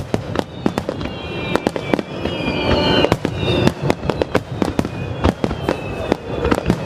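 Aerial fireworks bursting in rapid succession: many sharp bangs and cracks, several a second, with a few high tones that glide downward in pitch over them.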